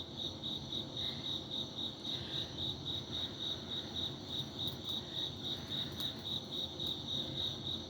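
A cricket chirping steadily in a fast, even rhythm of about five high chirps a second.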